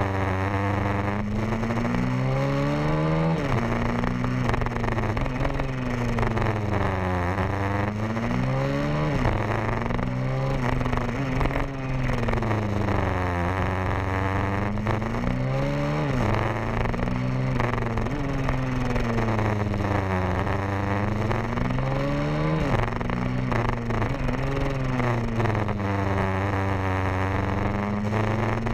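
150cc pit bike engine being ridden hard, its pitch dropping and rising again every two to three seconds as the throttle is rolled off and back on, over a steadier low engine note.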